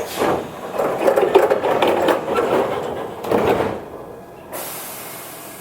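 Onboard sound in a Toyohashi Railway 1800 series electric railcar: a clattering mechanical stretch for about four seconds, then a steady hiss of compressed air from the train's air system that starts about four and a half seconds in.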